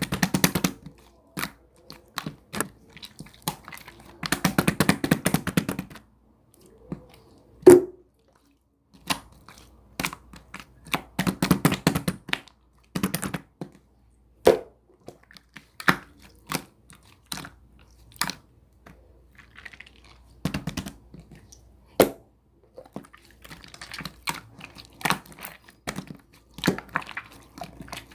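Irregular clicks and taps, with a few longer bursts of dense crackling and one loud sharp knock about eight seconds in.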